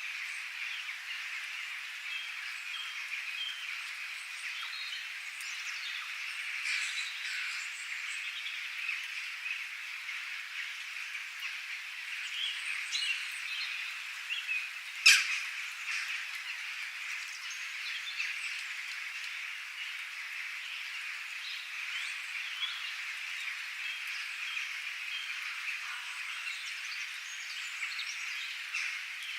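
Birds chirping and calling over a steady high-pitched chorus. A single sharp click comes about halfway through.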